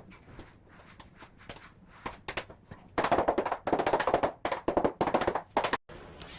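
A few light taps, then from about three seconds in a loud, fast run of sharp clattering knocks that stops abruptly near the end.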